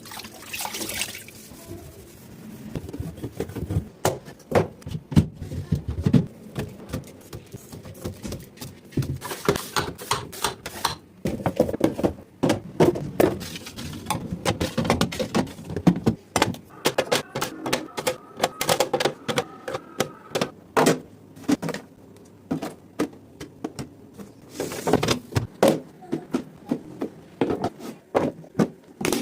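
Repeated knocks, clicks and clatter of containers, jars and bottles being handled and set down while a refrigerator is stocked or organized.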